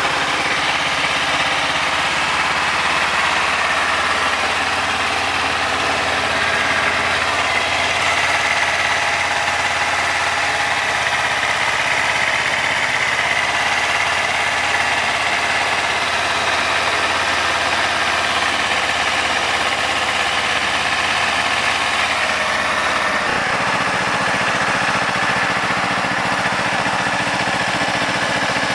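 A 2009 Kawasaki Ninja 250R's fuel-injected parallel-twin engine idling steadily while it warms up from a cold start at about 2 °C. The idle note changes abruptly a little over twenty seconds in.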